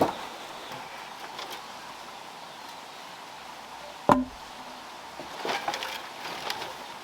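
A single sharp knock about four seconds in, followed a little later by a few lighter clicks and taps, over a steady hiss.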